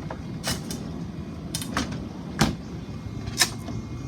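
Galley cabinet or appliance doors being opened and shut: a series of sharp latch clicks and knocks with one heavier thud in the middle, over a steady low hum.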